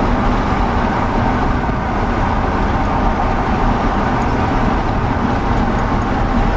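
Steady engine and tyre road noise heard from inside a moving car's cabin.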